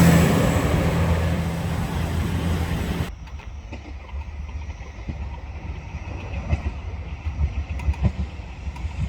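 KiHa 281 series diesel railcar running, its engine drone loud with a steady low hum. About three seconds in, the sound drops sharply to a quieter rumble of the train rolling, with scattered clicks and knocks from the wheels on the track.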